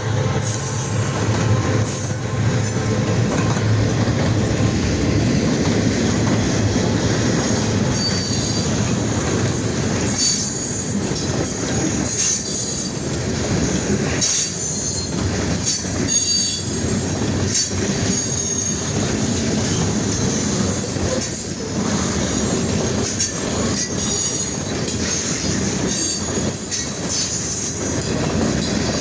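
Freight train rolling past: a steady rumble and clatter of wheels over the rails, with high-pitched wheel squeal coming and going, strongest around ten seconds in and again near the end.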